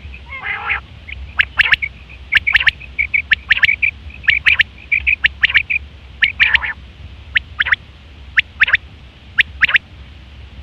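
Quail calling: sharp, very short whistled notes, mostly in pairs or threes, repeated over and over, with softer quick notes between them and a harsher raspy call about half a second in and again about six and a half seconds in. A low steady hum runs underneath.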